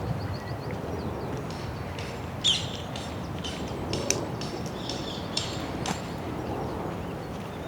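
Small birds chirping in short, scattered calls, busiest in the middle of the stretch, over a steady low background rumble.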